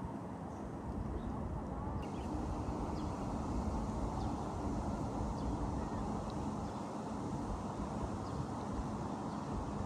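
Outdoor ambience: a steady low rumble with faint, short bird chirps scattered over it.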